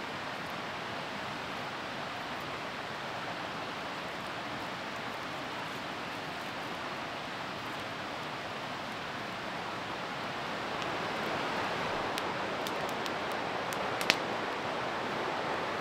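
Whitewater rapids on a river rushing in a steady, even roar, growing a little louder about two-thirds of the way in, with one sharp click near the end.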